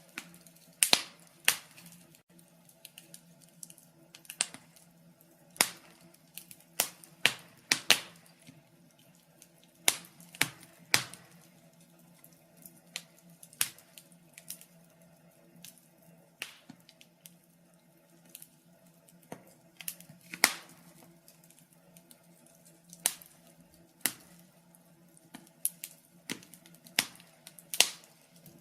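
Wood fire crackling, with irregular sharp pops and snaps, a few of them much louder than the rest, over a faint steady low hum.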